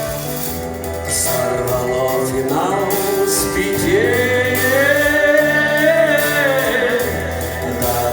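Music: a man singing long, drawn-out notes that glide and waver, over steady instrumental accompaniment.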